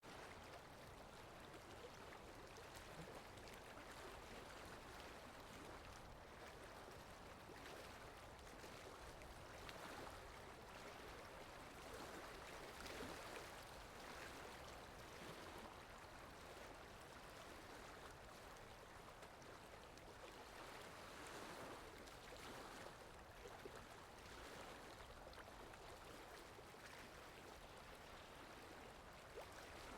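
Faint steady rain falling, a soft even hiss with a scatter of small drop ticks.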